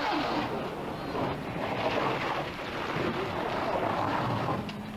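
Rally car engine running at speed, mixed with wind noise on the microphone.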